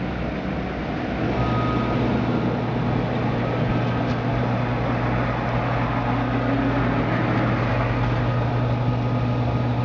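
Washing machine motor and drum running up into the spin cycle, a steady low hum that settles in about a second in and holds.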